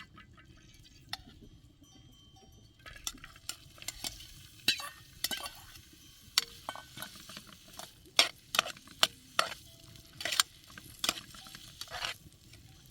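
An irregular clatter of sharp knocks and scrapes, about a dozen, starting about three seconds in, with a few brief faint tinkling tones.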